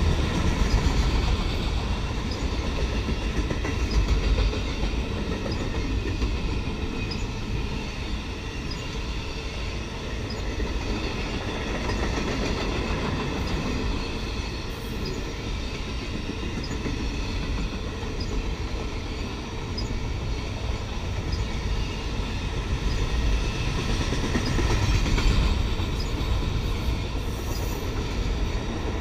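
Autorack freight cars rolling past on the rails, making a steady low rumble of wheels on track.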